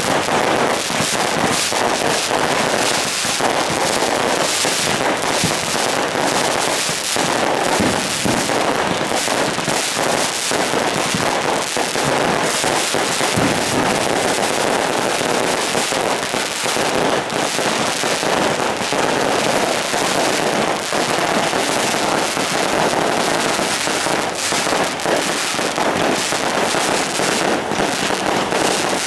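Firecrackers going off as a dense, unbroken crackle of rapid bangs, with no let-up.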